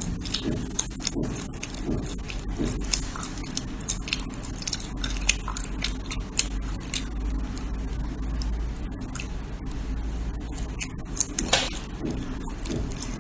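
Close-up crunchy chewing and biting: dense, irregular crackles and clicks.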